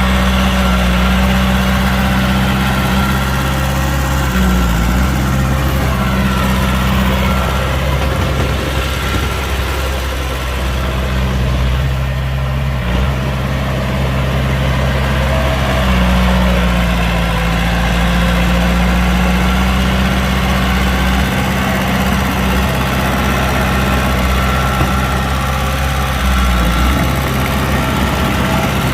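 Heavy diesel engine of earthmoving machinery running steadily near idle, its pitch shifting briefly a few times.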